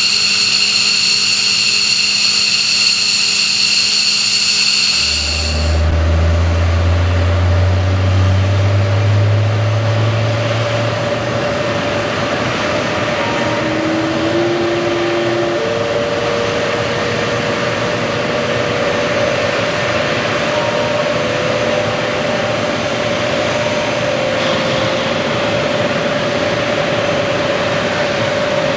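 Military aircraft engines running: a high, steady turbine whine for about five seconds, then an abrupt change to another aircraft's engines, with a low tone rising for a few seconds before settling into a steady hum over a rushing hiss.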